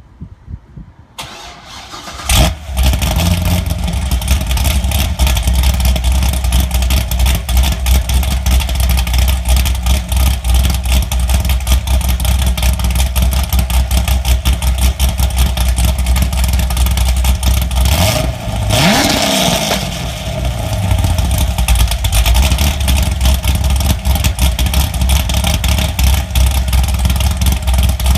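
GM LS V8 truck engine with a Brian Tooley Racing Stage 4 truck cam, cranking and catching about two seconds in, then idling with the cam's choppy lope. About eighteen seconds in it is revved once, the pitch rising and then falling back to idle.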